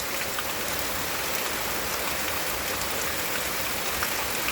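Steady heavy rain falling, with a scattering of faint drop ticks on hard surfaces.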